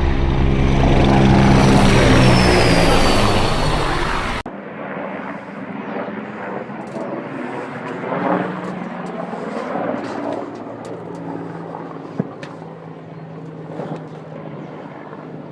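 Military aircraft passing low overhead, loud, its high engine whine falling in pitch. It cuts off abruptly after about four seconds, leaving a quieter distant engine drone with a few scattered sharp cracks.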